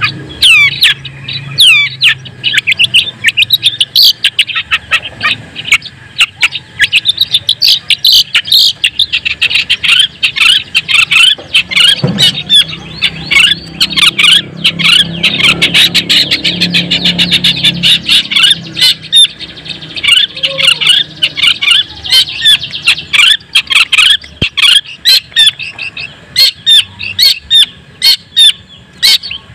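Long-tailed shrike (cendet), the white-breasted kind, singing a fast, unbroken stream of sharp chattering notes.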